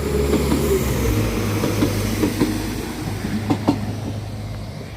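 Class 195 diesel multiple unit pulling out of the station, its underfloor diesel engines droning steadily, the pitch stepping up about a second in as it gathers pace. A few sharp clicks come past the middle.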